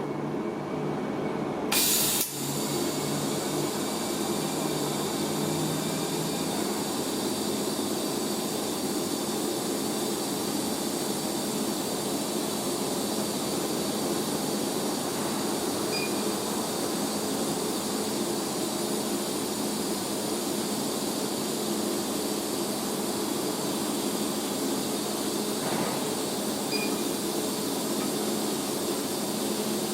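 TIG welding arc on stainless steel at 55 amps, striking about two seconds in with a sudden burst and then running as a steady hiss with a low hum underneath.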